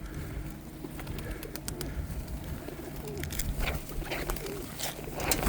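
Pigeons cooing close by, with a few brief scratchy sounds scattered through.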